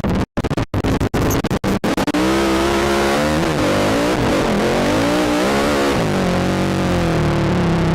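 ATV engine revving under the rider's throttle, its pitch rising and falling several times, over a steady rush of noise. The sound cuts out briefly several times in the first two seconds.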